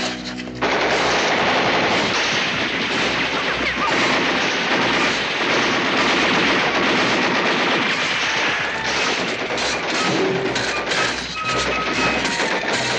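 Sustained rapid gunfire, dense rifle and machine-gun volleys, bursting in suddenly about half a second in and continuing almost without a break.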